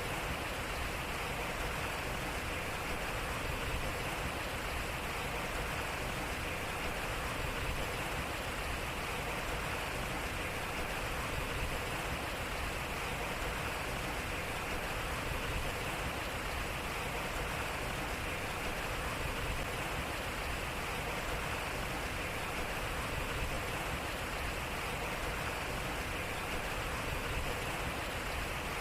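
Water running and splashing at a turning waterwheel: a steady rushing, with a slight swell that repeats about every four seconds as the short recording loops.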